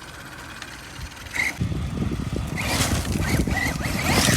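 Arma Mojave 6S electric RC truck setting off across the dirt about a second and a half in: its motor and tyres churning loose dirt, growing louder toward the end.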